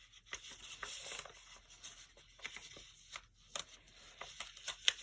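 Sheet of origami paper rustling and crackling as it is handled and folded, in a series of short, soft crinkles, with a few sharper ones near the end.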